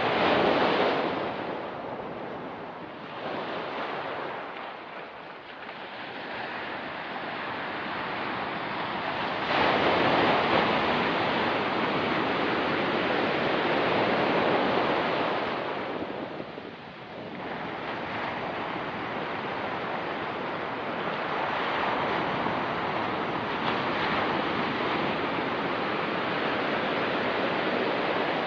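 Ocean surf on a rocky beach: waves breaking and washing in and out in slow swells, with a big surge about ten seconds in that lasts several seconds, a brief lull after it, then a steadier wash.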